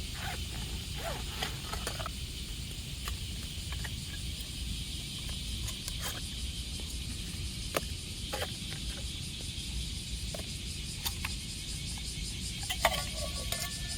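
Summer insects droning steadily in a high, pulsing hiss over a low rumble, with scattered small clicks and knocks.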